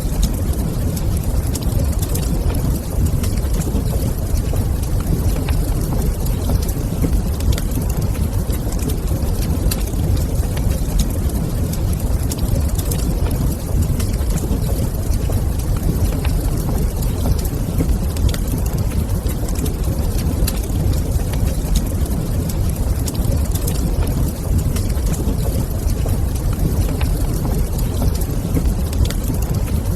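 Wood fire in a stone fireplace crackling, with scattered small pops over a steady low rumble.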